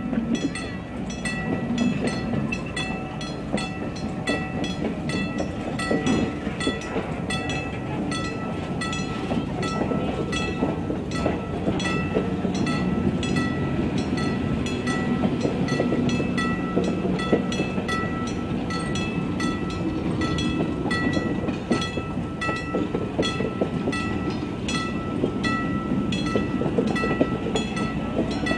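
Passenger cars of a train rolling past at a grade crossing, wheels rumbling and clicking over the rail joints, while the crossing bell rings steadily with evenly spaced strikes.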